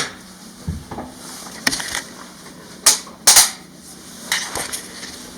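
A series of sharp knocks and clacks at irregular intervals, the loudest a close pair about three seconds in, in a small room.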